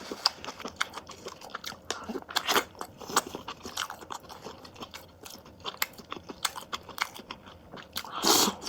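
Close-up chewing and biting of crunchy food: irregular crunches and clicks, with a louder crunch near the end.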